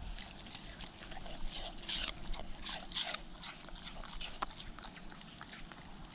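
A dog making a run of short, irregular noisy sounds, with a sharp click about four and a half seconds in.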